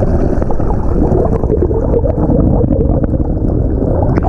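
Swimming-pool waterfall heard from underwater: loud, steady, deep churning of falling water and bubbles.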